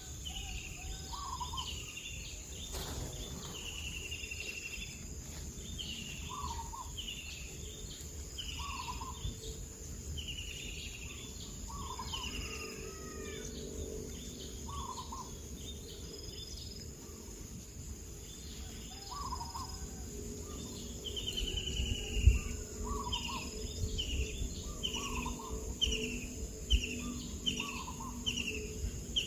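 A bird calling over and over, short chirps about once a second, some with a quick trill, over a steady high-pitched drone and a low rumble.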